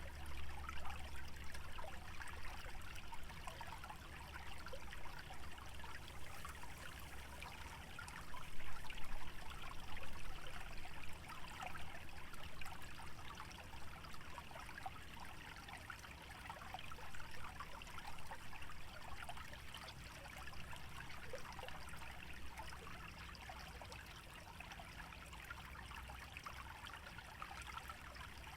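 Small stream trickling and bubbling over a shallow wetland channel, a steady watery babble that swells for a few seconds early on, with a low rumble underneath that comes and goes.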